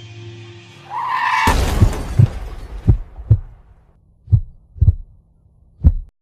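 Film sound design: a held musical chord fades, a rising swell ends in a loud crash about a second and a half in, then a slow heartbeat sound effect follows, low thumps in pairs.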